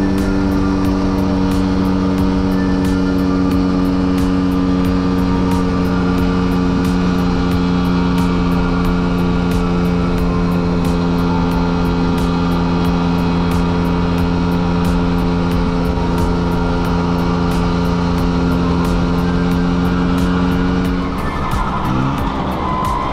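Vespa V50 two-stroke scooter engine running at a steady, even speed, then easing off about three seconds before the end.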